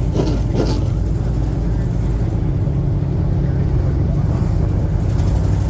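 Dirt-track race car engines running steadily at speed, with a voice briefly heard near the start.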